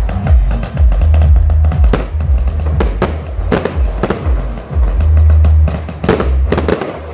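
Fireworks display: a string of sharp bangs and cracks from shells bursting, over loud music with a deep bass.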